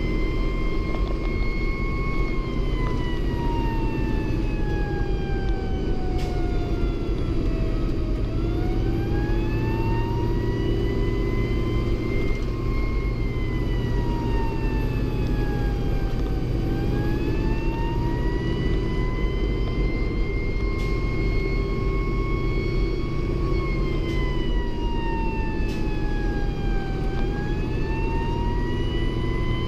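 Fire engine siren in a slow wail, rising and falling about every ten seconds, over the steady heavy rumble of the truck's engine and road noise.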